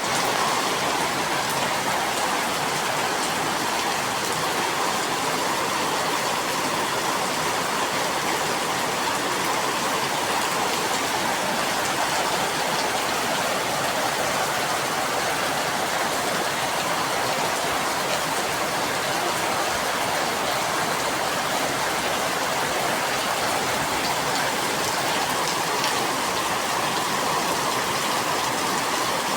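Heavy rain falling, a steady even downpour.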